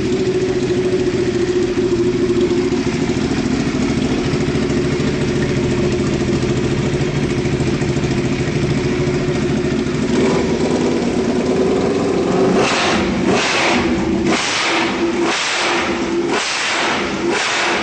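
Superbike engine running steadily with an even, loud note; about two-thirds of the way through it is revved in a rapid series of short blips.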